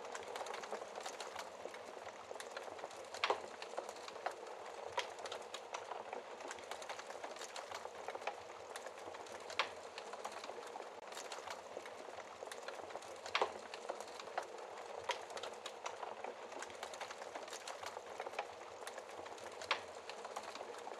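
Wood fire burning in a fireplace: a steady soft hiss of flames with frequent small crackles and a few louder, sharper pops from the burning logs.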